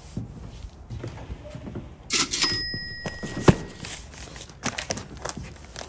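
Cardboard boxes being handled and moved: a short scrape of cardboard about two seconds in, a sharp knock at about three and a half seconds, then several lighter knocks and clicks.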